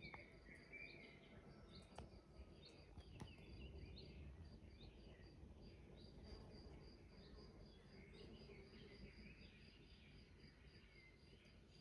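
Faint outdoor ambience: birds chirping and a high chirp repeating at an even pace, like a cricket, over a low background rumble.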